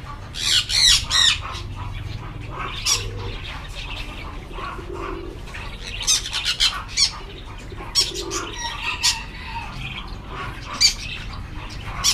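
Caged pet birds squawking and calling in short, sharp, high-pitched cries. There is a quick run of several calls about half a second in, with more scattered through the rest.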